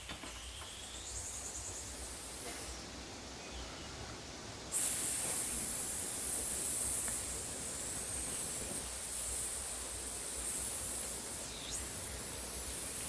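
Breathy hissing blown through the mouth to imitate wind, part of a voice-and-body performance of the wind element. The hiss is steady and airy, with a sweeping, whooshing colour, and it turns suddenly louder about five seconds in.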